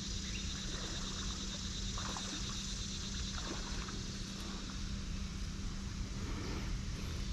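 Steady hum of a vehicle engine with a constant low drone, running evenly throughout.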